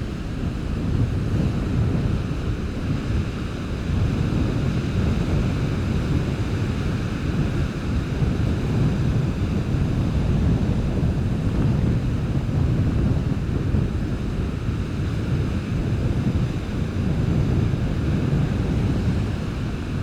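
Strong wind buffeting the camera's built-in microphone with a low, steady rumble, over the wash of surf breaking on the beach.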